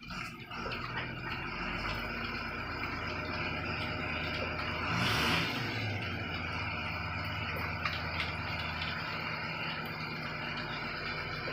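Truck engine running steadily, with a short loud hiss about five seconds in.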